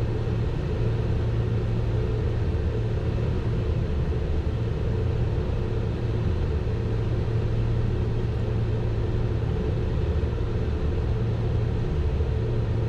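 Steady cockpit noise of a Learjet 60XR business jet on final approach: a constant low hum with a faint steady tone above it and an even rush of airflow.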